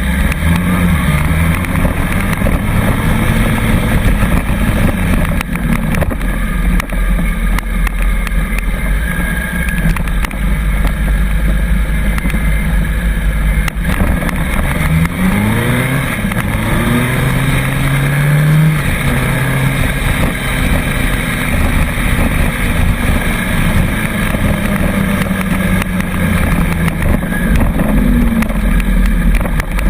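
Wind buffeting the microphone and road rumble while riding a Bird electric scooter. About halfway through, a motor's pitch rises for a few seconds.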